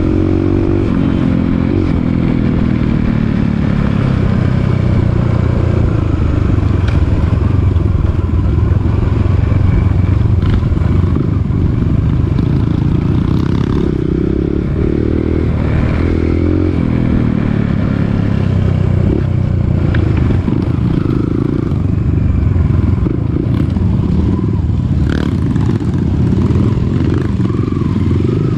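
Dirt bike engine running under load on a rough trail, its revs rising and falling again and again as the throttle opens and closes, with short clattering knocks from the bike over the rough ground.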